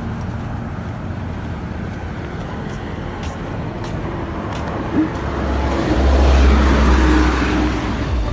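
Road vehicle noise, with a low engine rumble that swells about six seconds in.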